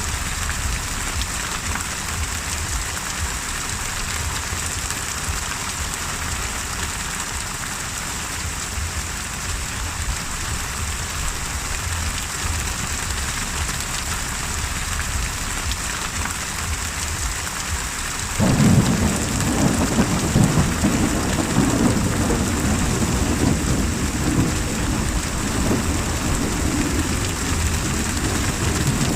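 Steady heavy rain, with thunder that breaks in suddenly about two-thirds of the way through and rumbles on to the end.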